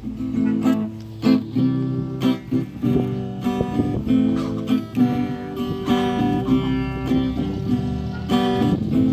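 Acoustic guitar playing, a mix of plucked notes and strums.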